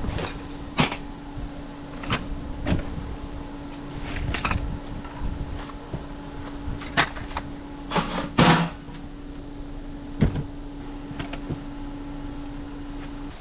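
Irregular knocks, clicks and clatter of camping gear being handled during camp setup, with the loudest clatter about eight seconds in, over a steady low hum that stops abruptly at the end.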